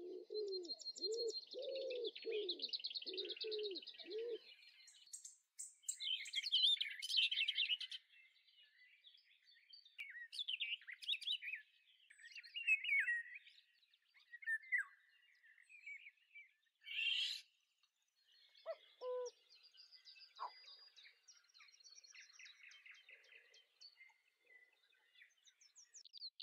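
Several birds chirping and singing in quick, high twitters and trills. For about the first four seconds a lower call repeats roughly twice a second underneath them.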